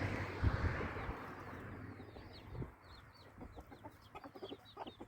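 Chickens clucking and peeping: from about two seconds in, a rapid run of short, high, falling calls with lower clucks, after a rushing noise with a few thumps in the first second or so.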